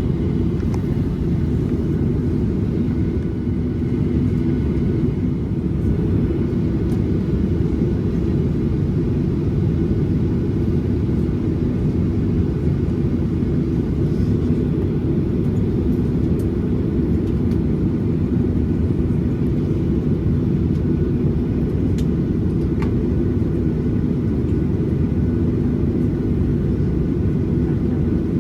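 Steady low rumble inside the cabin of a Boeing 737-800 on the ground, from its idling CFM56 jet engines and cabin air, with a faint tick or two partway through.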